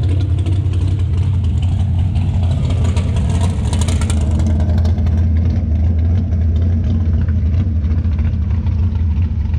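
Steady low rumble of car engines running at idle, with a brief rise in higher-pitched hiss about three to four seconds in.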